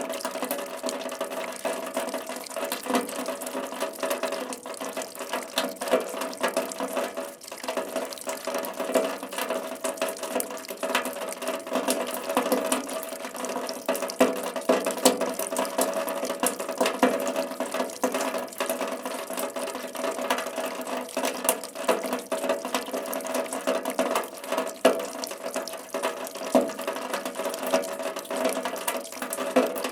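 Steady rain falling, a dense, even wash of countless small drop impacts with no let-up.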